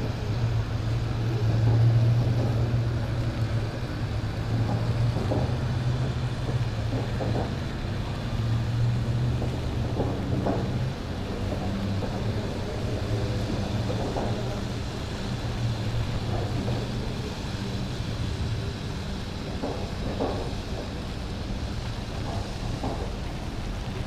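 A vehicle engine running with a steady low hum over street noise; the hum drops back about eleven seconds in.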